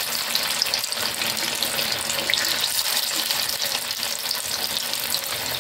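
Chicken shami kabab patties shallow-frying in oil on a low flame: a steady sizzle with fine, dense crackling.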